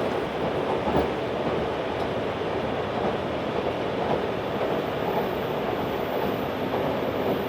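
Running noise inside a JR 383 series pendulum tilting electric train at speed: a steady rumble of wheels on rail, with an occasional light knock.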